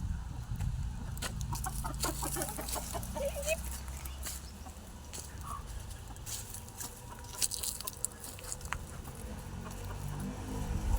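Chickens clucking, with a quick run of short clucks a couple of seconds in, over a low steady rumble.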